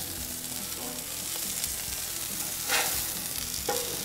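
Slices of goose liver frying on a hot iron griddle plate, a steady sizzle, with a short louder scrape about three seconds in as the metal spatula works under a slice.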